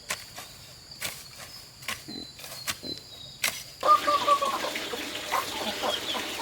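A steady high insect trill, typical of a cricket, with sharp knocks every half second or so. About four seconds in it gives way to a noisier outdoor background with short chirping calls.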